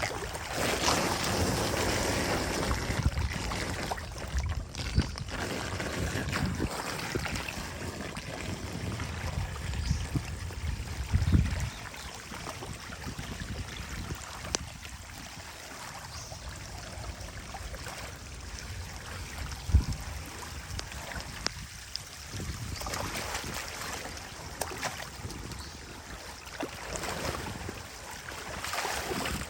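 Water rushing and splashing, with wind on the microphone and a few sharp knocks, the loudest about 11 and 20 seconds in.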